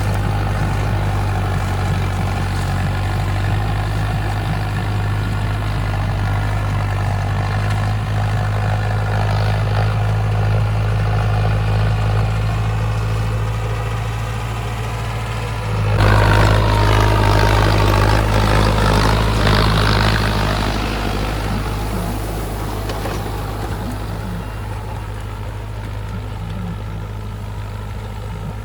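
Tractor diesel engine running steadily. About two-thirds of the way through it gets suddenly louder for several seconds with its pitch sliding up and down, then eases back and grows gradually quieter.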